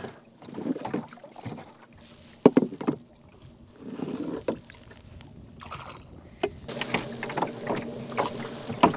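Water splashing and scattered knocks against the hull of a leaking canoe, sparse at first and busier about two-thirds of the way in.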